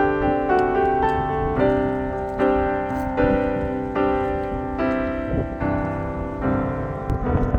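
Background music: a piano melody of steadily struck notes, about one a second.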